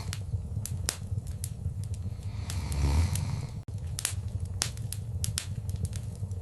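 Wood fire in a fireplace crackling, with frequent sharp pops and snaps over a low steady rumble of the flames. The fire swells louder about three seconds in, and the sound drops out for an instant just after.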